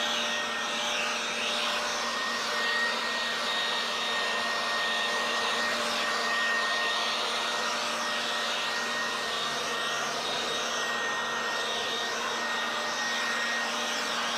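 Portable leaf blower running steadily at full speed, blowing rinse water off a car's paint. It makes an even rushing of air with a steady high whine.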